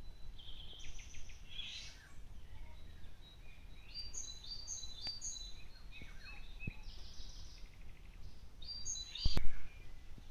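Several small birds chirping and trilling in short high notes over a low steady rumble, with one sharp knock about nine seconds in.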